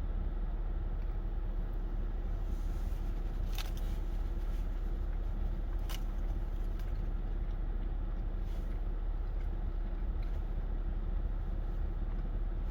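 Steady low background rumble with a constant faint hum, broken by a few soft clicks.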